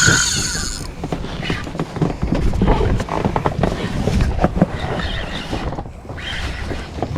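Wind on the microphone and water noise around a small inflatable boat at sea, with scattered clicks and knocks from fishing gear being handled. A brief high-pitched tone sounds in the first second.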